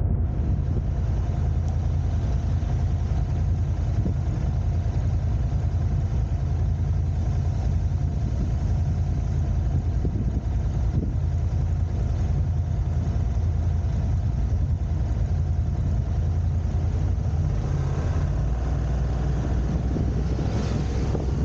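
Car engine and road noise: a steady low rumble that holds level throughout.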